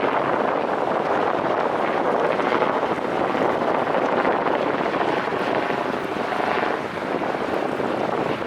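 Wind buffeting the microphone: a steady, loud rushing noise that dips briefly near the end.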